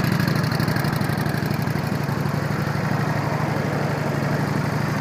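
Honda Shadow 750's 745cc fuel-injected V-twin engine idling steadily, with an even low pulse.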